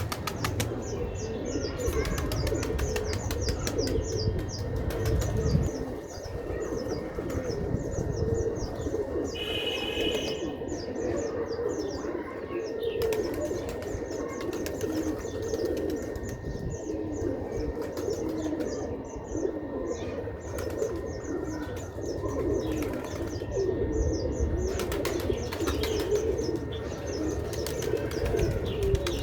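A flock of domestic pigeons cooing over one another in a continuous throaty chorus, with a steady run of short high chirps above it. There are spells of wing flapping near the start and again near the end.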